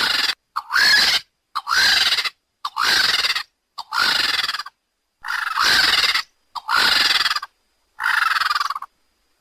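A bird's harsh screeching calls, repeated about once a second. Each call rises and then falls in pitch, with a slightly longer pause about halfway through.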